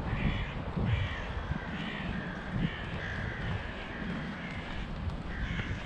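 A bird calling over and over, short calls coming roughly every half second to a second, over a low rumble.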